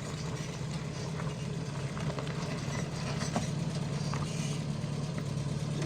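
A motor running steadily, a low even hum, with a few faint clicks over it.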